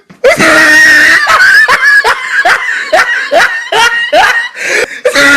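A high-pitched voice screaming: one long held shriek, then a string of short rising yelps like shrieking laughter, and another held shriek near the end.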